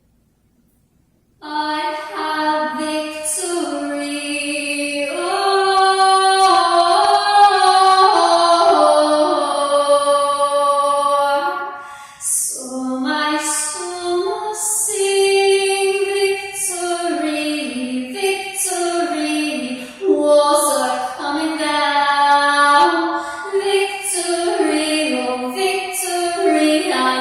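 A woman singing alone in long, held, gliding notes, starting about a second and a half in after near silence, with a short break for breath near the middle.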